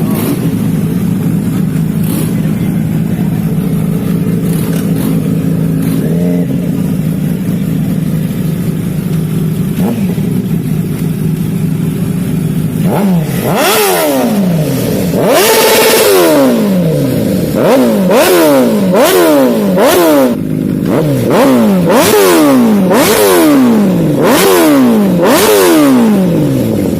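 Superbike engine idling steadily, then from about halfway revved hard again and again, a dozen or so quick blips, each rising sharply and falling back.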